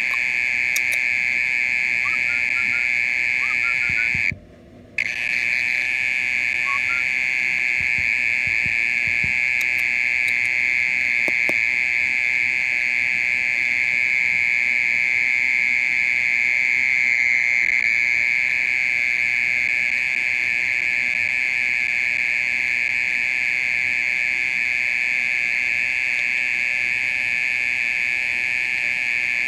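Mole cricket calling: a continuous, loud, even trill at one steady pitch, breaking off for under a second about four seconds in, then carrying on unchanged.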